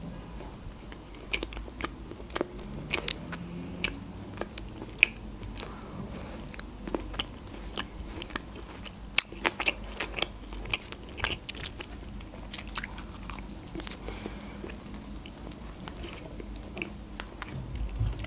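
Close-miked chewing of a soft jam-filled sweet bun, with many short, sharp wet mouth clicks scattered throughout.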